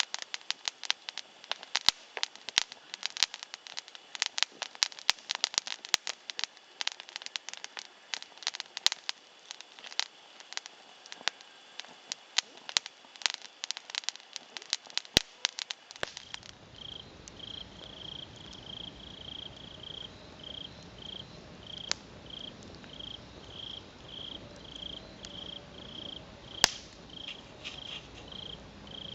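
Wood fire burning directly on the ground, crackling with dense, sharp pops. About halfway through it gives way to a quieter fire with only a few pops, under an insect chirping at an even pace, roughly one to two chirps a second.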